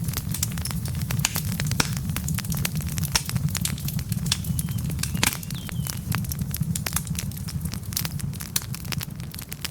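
Wood fire of burning logs crackling steadily, with many irregular pops and snaps over a low rumble. A faint high whistle comes briefly about halfway through.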